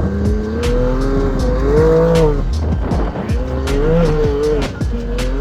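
Can-Am side-by-side race car driven hard over rough desert ground, its engine rising and falling with the throttle and dropping off twice, with repeated sharp knocks from the chassis and suspension.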